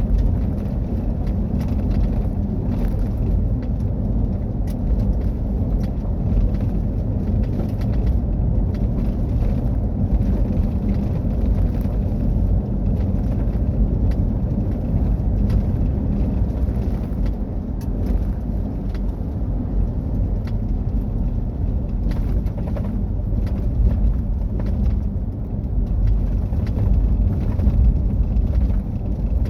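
Mitsubishi Triton driving off-road: a steady low rumble of engine and tyres over rough ground, with scattered small ticks and clicks throughout.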